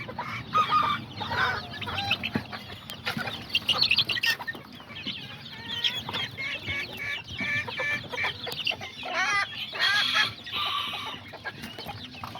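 Young Kikiriki bantam chickens clucking and calling, many short overlapping calls one after another, with one louder call about ten seconds in.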